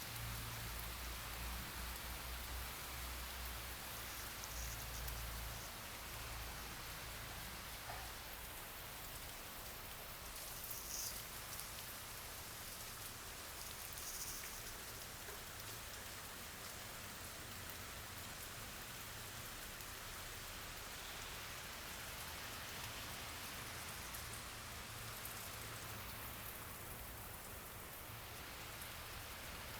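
Steady rain falling, an even hiss of drops on surfaces. A low rumble underneath fades out in the first few seconds.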